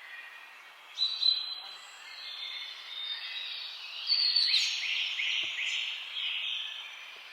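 Songbirds singing and chirping over a steady background hiss, with a sharp call about a second in and a run of quick repeated notes from about four seconds in.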